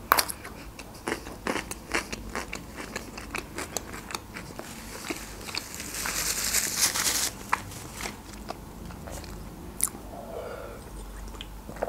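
Close-miked mouth sounds of someone chewing crunchy food, with many quick crunches and smacks. About five seconds in there is a breathy rush of air lasting a couple of seconds, and near the end she takes a sip from a can.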